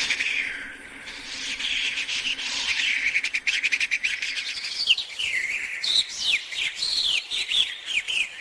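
Small birds chirping and twittering: a dense, fast run of high chirps, then from about halfway separate quick swooping chirps repeated several times a second.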